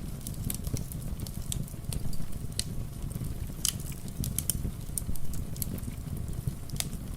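Wood fire crackling in a fireplace: irregular sharp pops and snaps over a steady low rumble of rain.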